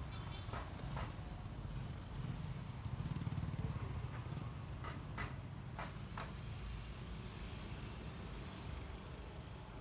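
Honda ADV 150 scooter under way: a steady low rumble of engine and road that swells about three seconds in, with a few short ticks scattered through it.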